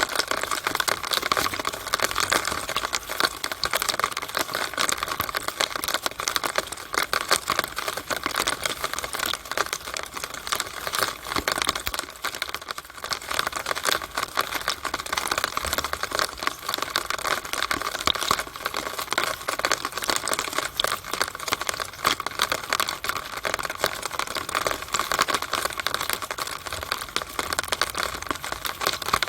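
Rainwater running down a downspout in the rain: a steady, dense stream of irregular drips and ticks.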